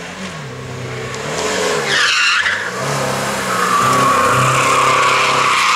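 Race car engine revving up and down through gear changes, with tyres squealing through a corner from about two seconds in, the squeal held steadily over the second half.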